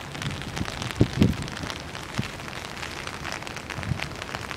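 Rain falling, a dense crackle of drops over a steady hiss, with two low thumps about a second in.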